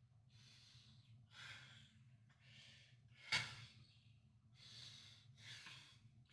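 Faint heavy breathing from a man exercising: a run of breaths about once a second, one sharper and louder just past halfway.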